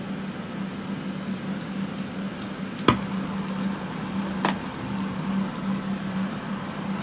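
Fume-extraction fans running with a steady hum and rush of air, with two sharp clicks, about three seconds and four and a half seconds in.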